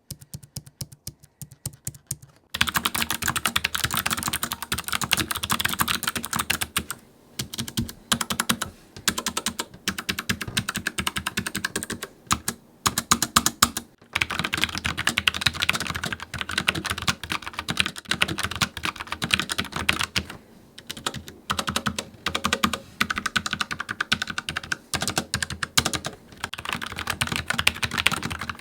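Logitech MX Mechanical keyboard being typed on, a fast, continuous run of mechanical key clicks with a few brief pauses. The first two seconds hold quieter, sparser keystrokes, and loud steady typing starts about two and a half seconds in.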